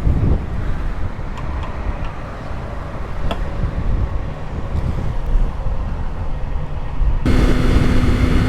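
Low wind and road rumble from a motorcycle ride, with a few faint clicks. About seven seconds in it switches abruptly to a louder, steady engine drone of the Yamaha MT-03 at cruising speed.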